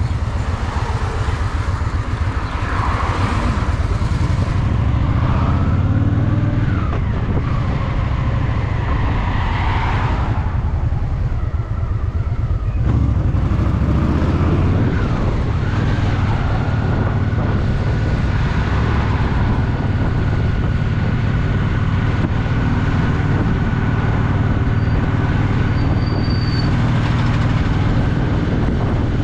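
Honda Shadow VT750's V-twin engine running as the motorcycle rides along, its pitch rising and falling several times as the rider works the throttle, over steady road noise.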